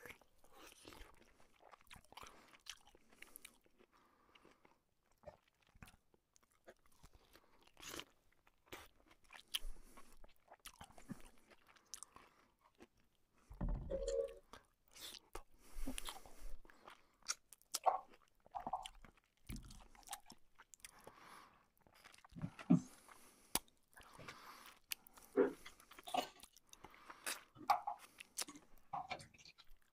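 A man eating chicken bhuna by hand: irregular chewing and biting sounds, with short clicks and a few louder bites scattered through.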